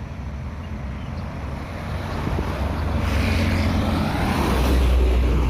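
A heavy road vehicle's engine rumbling and getting louder as it approaches, loudest about four to five seconds in.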